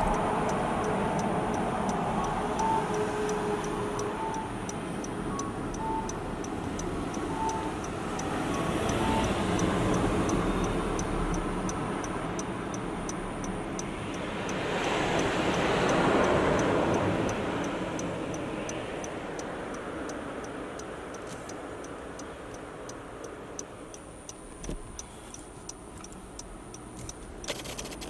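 Car driving through town, heard from inside: steady road and engine noise that swells twice with louder rushing, then eases off. A light, regular ticking about twice a second runs under it.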